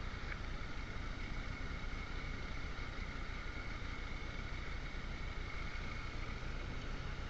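Motorcycle running at a steady cruising speed, with steady wind and road noise.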